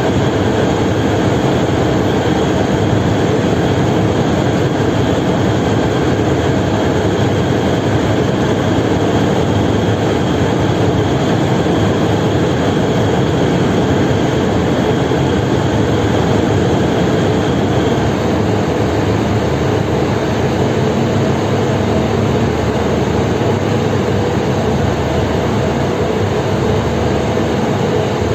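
A large engine running steadily, a loud even drone with several held tones and a faint high whine that stops about two-thirds of the way through.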